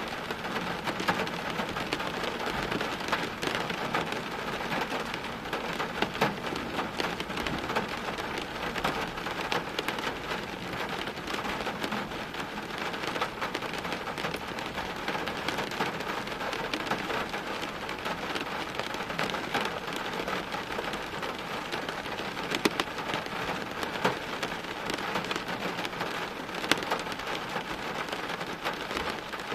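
Steady heavy rain falling on hard surfaces, with many sharp individual drop hits over an even hiss.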